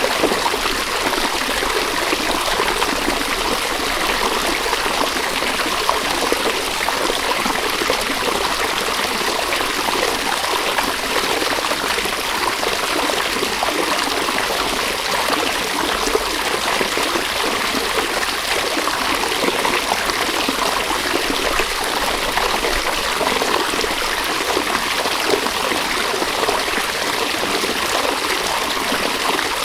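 River water running steadily, an even continuous rush of flowing water.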